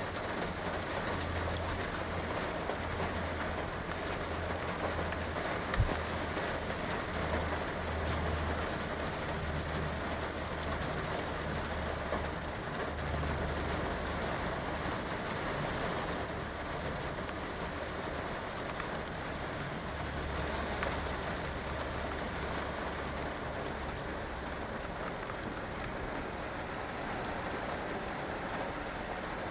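Rain falling steadily and pattering on a van's roof and windows, heard from inside. A low rumble comes and goes underneath, and there is a single sharp tap about six seconds in.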